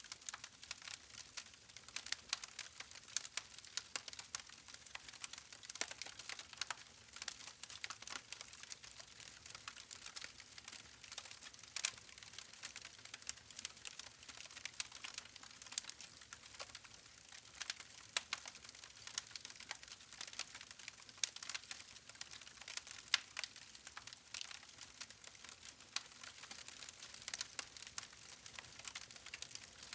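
Burning logs in a campfire crackling: a dense, irregular stream of sharp pops and snaps over a soft hiss.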